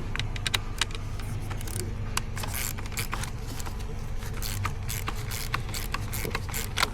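Irregular sharp metallic clicks and clinks of hand tools and parts being handled during a car battery replacement, over a steady low hum.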